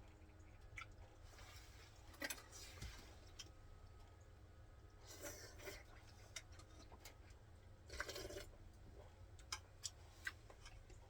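Near quiet with faint, irregularly spaced small clicks and three brief rustling noises, about two, five and eight seconds in.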